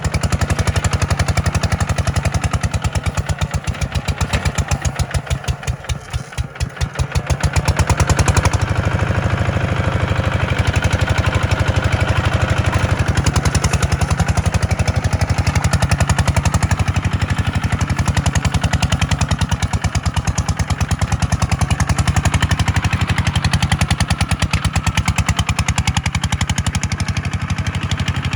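Kubota tractor's diesel engine running with a rapid, even firing beat. About five seconds in it quietens for a moment, then swells back up louder.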